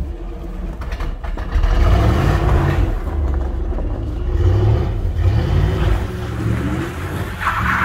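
1996 Pontiac Trans Am's LT1 V8 revving as the car pulls away from the curb, its engine pitch rising and falling several times. A short rushing noise comes near the end.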